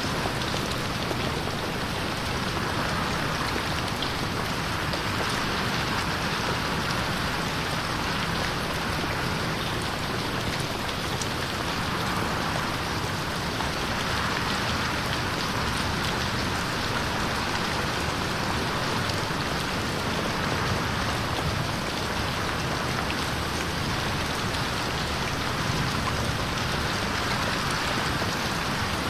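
Steady rain with pattering drops on a window pane.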